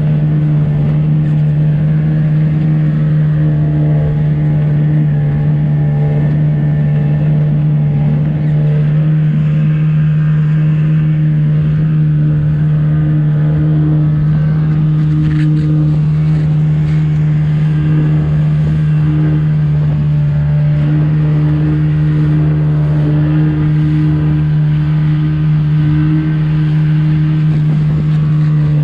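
An engine running steadily at one constant speed, a deep, even drone that does not rise or fall.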